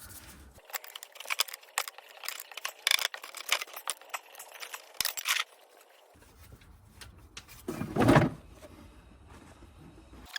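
Metal clinking and rattling, a quick run of sharp clicks like tools or a drain plug being handled, then a single louder, duller knock about eight seconds in.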